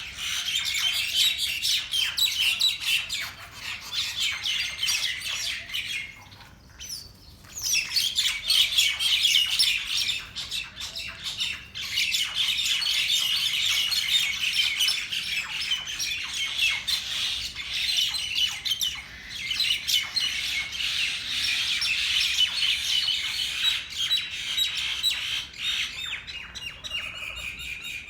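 Birds squawking in a fight, with rapid, harsh, overlapping calls that go on almost without a break. There is a short lull about six seconds in.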